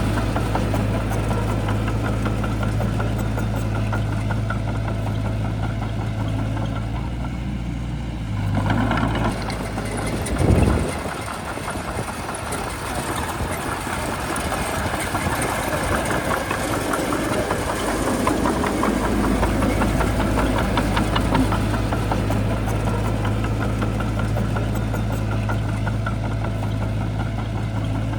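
Shantui bulldozer's diesel engine running with a steady low drone. About ten seconds in there is a brief louder swell, after which the low note drops away for several seconds and then returns.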